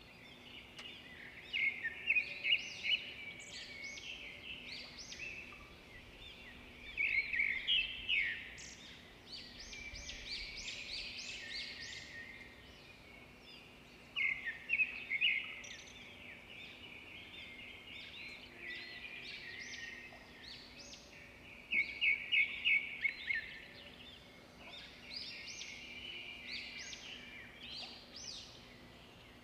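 Small birds chirping in repeated clusters of short, quick notes, over a steady background hiss.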